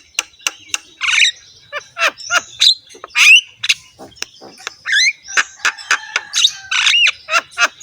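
Javan myna singing a fast, harsh song: a dense run of clicks and rasping squawks mixed with whistled notes that slide up and down.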